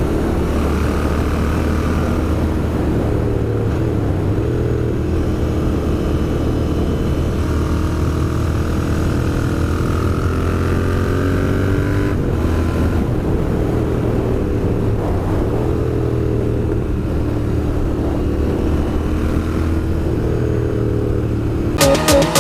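Royal Enfield Interceptor 650's parallel-twin engine running while riding, its pitch drifting gently up and down with the throttle. Music begins just before the end.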